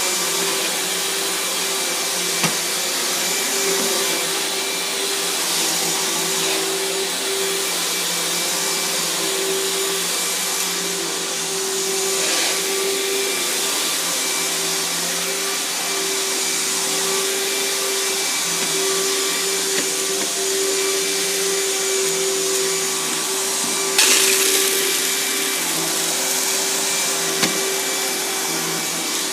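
Riccar 10-amp bagged upright vacuum cleaner running steadily over carpet, with a constant motor whine and the rush of air. A few sharp clicks come from debris being picked up, and the airflow gets louder for a moment about 24 seconds in.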